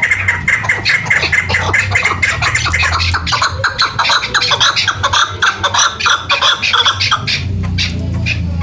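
Chukar partridge calling: a rapid run of short, repeated chattering notes, many a second, thinning out about seven and a half seconds in.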